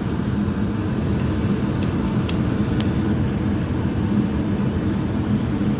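Goodman gas furnace running steadily with its burners lit and inducer motor on, a low, even hum and rush of air, with a few faint ticks about two to three seconds in.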